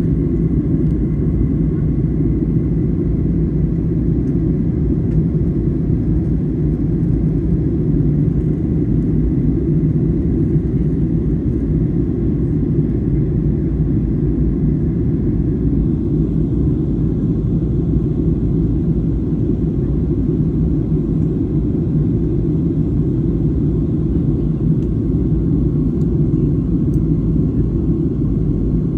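Steady low cabin drone inside a Boeing 737-800 jetliner in flight on approach, the engines and rushing air making an even rumble.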